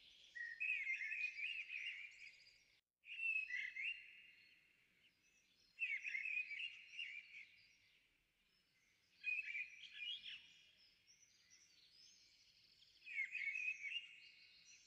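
Bird song: five phrases of quick, gliding chirps and warbles, each a second or two long, a few seconds apart.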